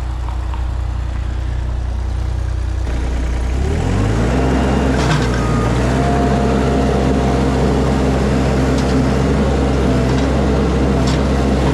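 Mini skid steer's engine running low, then revving up about four seconds in and holding steady at higher revs.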